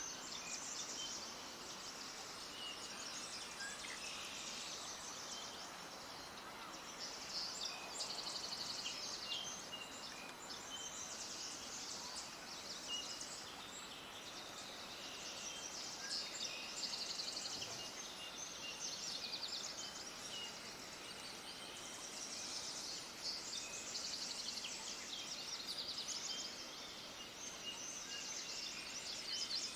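Many small birds chirping and trilling at once in a steady, dense chorus of high, rapid chirps, over a faint even hiss.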